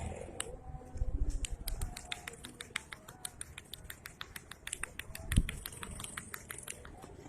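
Lovebirds chirping: a fast, uneven stream of short, sharp, high chirps, with a dull thump about five seconds in.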